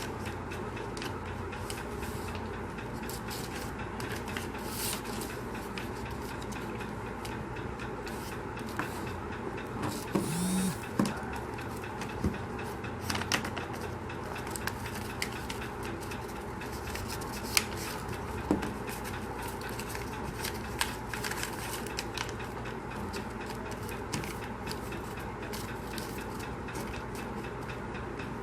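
Sheet of paper being handled and folded into an origami boat: scattered light crackles and taps over a steady background hum.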